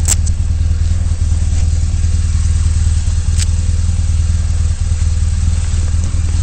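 Motorcycle engine running steadily with an even low rumble and no revving. There is a brief click at the start and another about three and a half seconds in.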